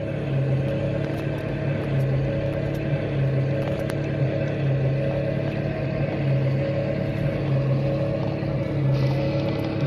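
A steady, engine-like mechanical drone with a low hum that swells and eases roughly once a second.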